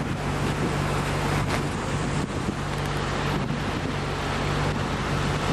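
Steady rushing of a flooding river, mixed with wind on the microphone, over a low steady hum.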